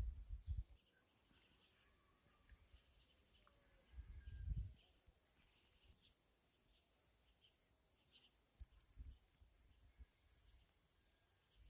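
Near silence: a faint, steady high insect trill, with a few soft low rumbles at the start, about four seconds in and near the end.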